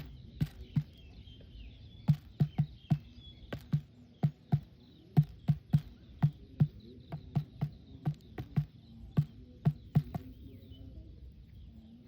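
Repeated sharp knocks, about two to three a second, stopping about ten seconds in, with faint bird or insect chirps behind them.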